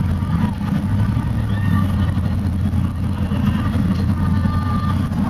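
A car driving, with the steady low rumble of engine and road noise.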